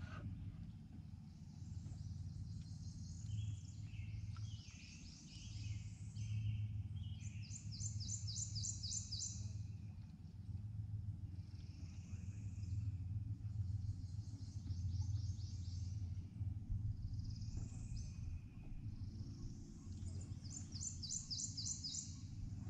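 Several songbirds singing: repeated high whistled phrases, with fast runs of sharp repeated notes about a third of the way in and again near the end. A steady low hum runs underneath.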